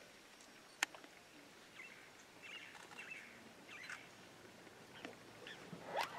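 Small birds chirping sporadically in the bush, with a single sharp click about a second in and a louder rising call near the end.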